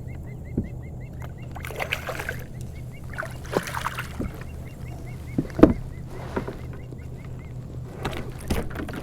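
Water splashing and sharp knocks around a fishing kayak as a fish is handled and played, several separate splashes with the loudest about halfway through, over a steady low hum and a faint rapid ticking.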